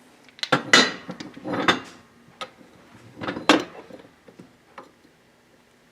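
Small metal parts and tools clinking and clattering as they are handled and set down, a few bursts of rattling with single clicks between, while link pin bushings are readied for pressing into a VW beam.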